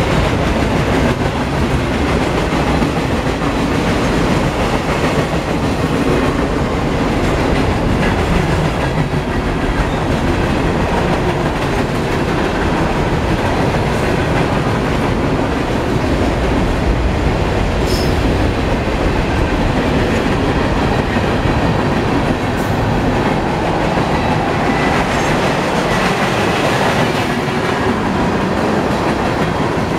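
Freight cars of a mixed freight train (gondolas, tank cars and covered hoppers) rolling past close by: a steady, loud rumble of steel wheels on rail with clickety-clack over the rail joints.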